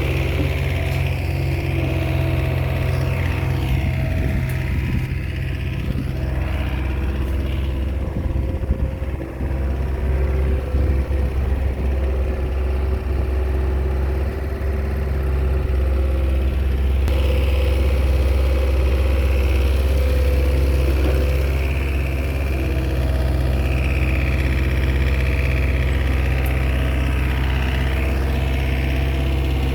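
Komatsu bulldozer's diesel engine running steadily, with a stretch of irregular knocking and rattling about a third of the way in.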